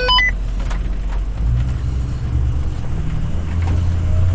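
Ford F-250 pickup's engine running at low revs, the engine sound swelling about a second and a half in and again near the end as it pulls on. A short electronic chirp sounds at the very start.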